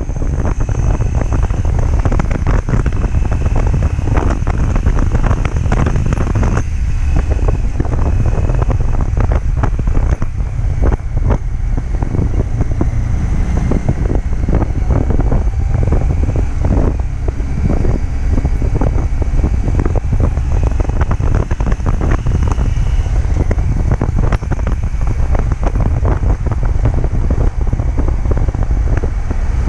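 Wind rushing over the microphone with the Harley-Davidson XG750's liquid-cooled V-twin engine running underneath, steady at expressway cruising speed.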